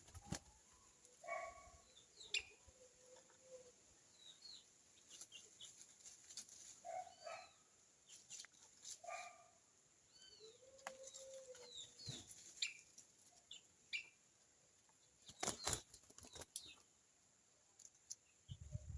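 Wild birds at a feeding tray: scattered short calls and high, falling chirps, with wing flaps and sharp clicks. A louder cluster of clicks comes near the end.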